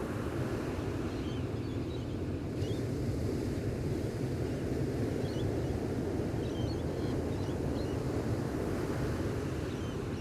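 Gentle ocean surf washing steadily on the shore, with faint short bird chirps several times.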